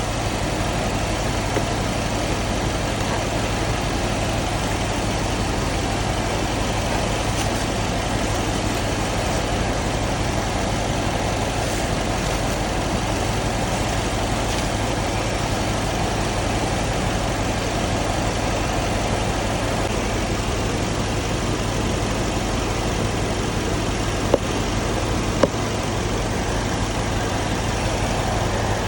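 Mercedes-AMG M177 4.0-litre twin-turbo V8 idling steadily, with two short sharp clicks near the end.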